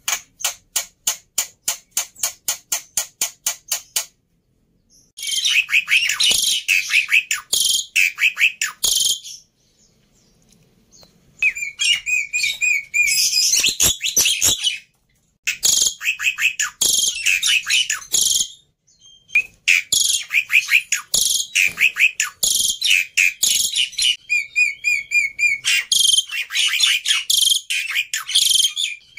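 Black-winged myna (jalak putih) singing a loud, varied song in dense bursts separated by short pauses, opening with a run of rapid evenly spaced clicks, about five a second, for the first four seconds.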